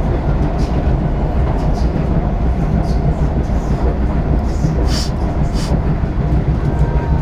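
Singapore MRT train running between stations, heard inside the carriage: a steady low rumble with a few short clicks from the wheels and track about five seconds in.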